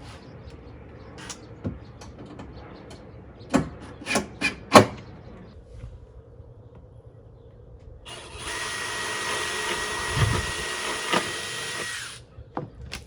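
A few sharp knocks and clicks of parts and tools being handled, the loudest about five seconds in, then a power drill running steadily for about four seconds with a constant whine, drilling holes in the plywood mounting board.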